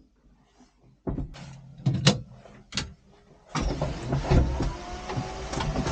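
Several sharp knocks and clunks, like handling or a door, starting about a second in, then a steady low rumble with clattering from about three and a half seconds.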